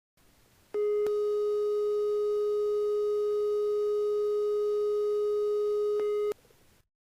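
Electronic test tone at one of the Solfeggio frequencies: a single steady pure pitch held about five and a half seconds. It starts with a click under a second in and cuts off with a click near the end.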